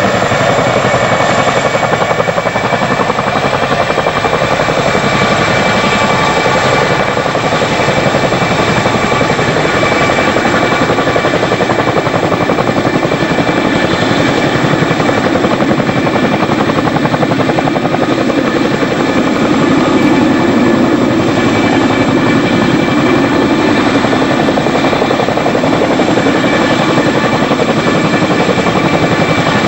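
Boeing CH-47 Chinook tandem-rotor helicopter running close by: a fast, steady beat of the rotor blades under the high, even whine of its twin turboshaft engines. It swells slightly louder about two-thirds of the way through.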